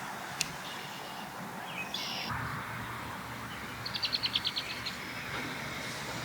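Osprey calling in a quick run of about eight short, high chirps about four seconds in, after a single fainter call near two seconds. A low steady hum sets in a little after two seconds.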